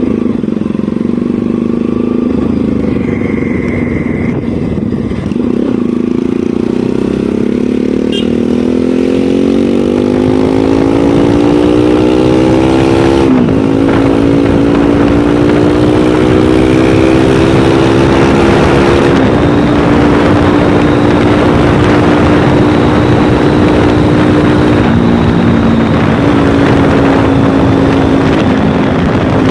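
Motorcycle engine running under way, its pitch climbing as it accelerates, then dropping sharply twice as it shifts up a gear, and holding fairly steady toward the end, over a constant rushing noise.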